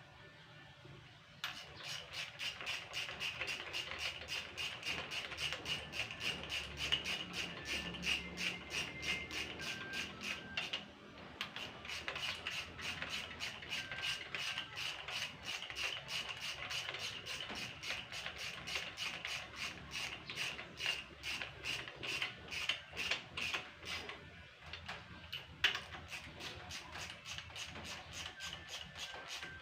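Rhythmic rasping strokes from hand work on an engine, several strokes a second, in long runs broken by two short pauses.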